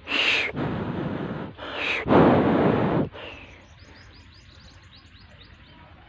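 Birds calling: several loud, harsh calls in the first three seconds, each opening on a short falling note, then a faint, rapid high chirping.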